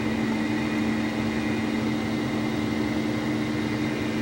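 Steady mechanical hum: two low, even tones and a fainter high whine over a constant noise, unchanging throughout.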